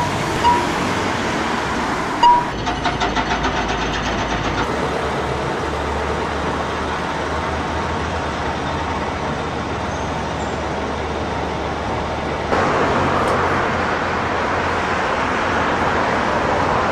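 620/720 class diesel railcar running along the line, with a steady rumble of engine and wheels on rail. A quick, even rhythmic clicking comes in for about two seconds a couple of seconds in, and the running noise gets louder about twelve seconds in.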